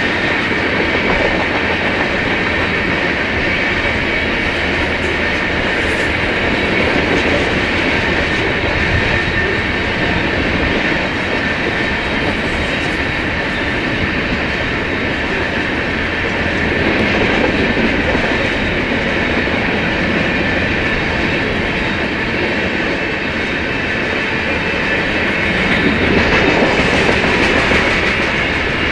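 Covered hopper cars of a BNSF freight train rolling past, their steel wheels on the rail making a loud, steady rolling noise that swells a little twice.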